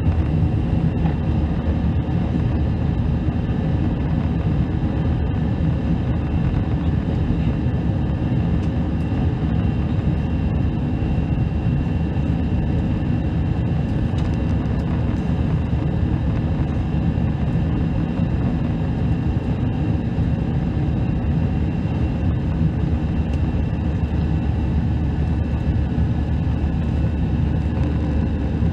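Steady roar of an Airbus A319 airliner's jet engines and airflow heard inside the passenger cabin, with a few faint steady high whines over the deep rumble.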